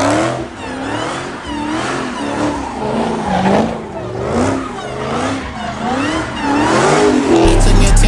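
Car tyres squealing with the engine revving, the pitch sweeping up and down over and over. A bass-heavy hip-hop beat cuts back in near the end.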